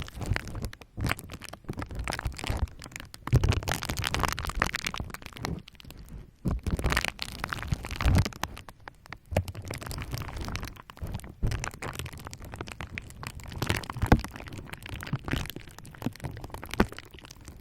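Bubble wrap being worked with a roller: irregular clusters of crinkling crackles and small sharp pops, coming in bursts with brief lulls between.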